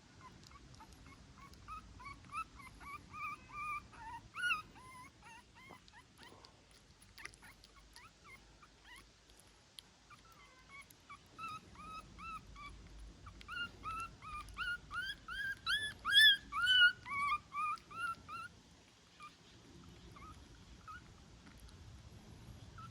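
Newborn puppy whimpering: runs of short, high, squeaky cries in two bouts, the second longer and louder.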